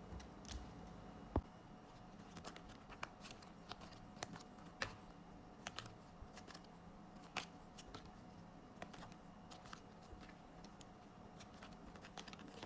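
Faint scattered clicks and light rustling of photocards and their packaging being handled and unwrapped, with one louder tap about a second and a half in.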